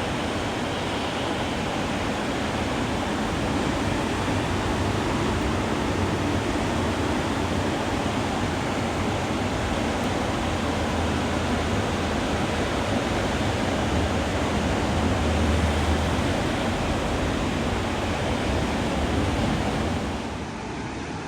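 Atlantic Ocean surf breaking on the beach: a steady, even wash of waves, dropping a little in level near the end.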